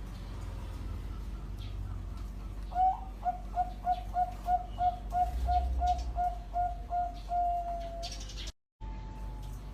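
Zebra dove (perkutut) singing: a run of about fourteen short, evenly spaced coos, close to three a second, ending on a longer drawn-out note.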